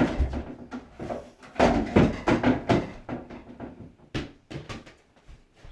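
A ball thrown against a wall and bouncing off the wall and floor: a run of sharp knocks, several in the first three seconds and another pair about four seconds in.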